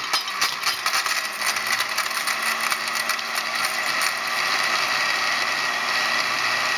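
Countertop blender motor running on its smoothie setting, chopping three expired Shot Blok energy chews stuck together. It starts suddenly, is rattly with many clicks at first, evens out about four seconds in, and cuts off suddenly at the end.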